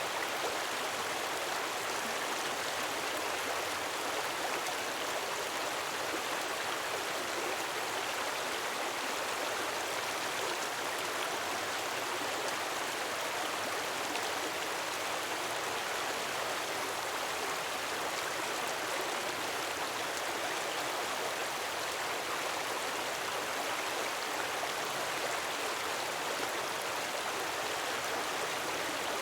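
Gentle waterfall splashing: a steady, unbroken rush of falling water with no swells or pauses.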